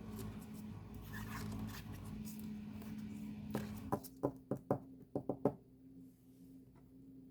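Hands handling an album and its packaging: a quick run of about eight sharp taps and clicks a little past the middle, over a steady low hum.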